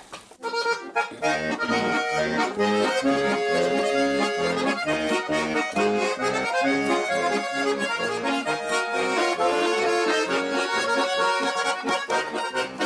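Accordion playing the instrumental introduction to a folk-style song, starting about half a second in, with a steady beat in the bass and chords.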